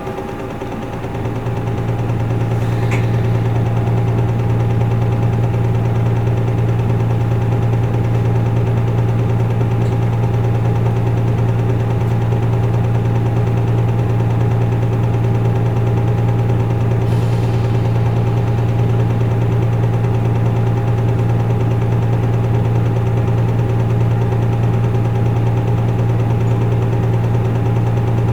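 Isuzu Erga Mio bus's diesel engine heard from inside the cabin, a steady low hum with a few constant tones above it. It swells over the first couple of seconds, then holds one unchanging pitch.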